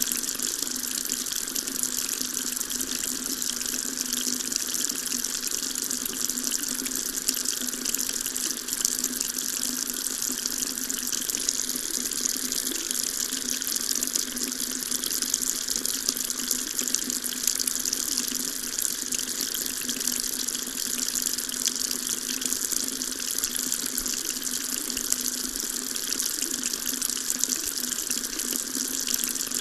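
Water tap running in a steady stream into a sink, an even splashing hiss with no change.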